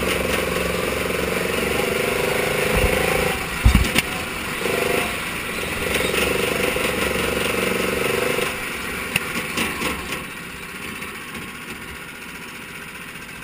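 Mini sprint car engine running at steady high revs, with two low thumps about three to four seconds in. The engine note stops about eight and a half seconds in, leaving a few clicks and a quieter steady background.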